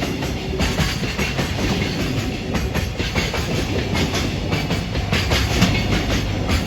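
JR freight train passing at trackside: a steady rush of rolling noise, with the wagons' wheels clattering over the rail joints in quick, uneven clicks.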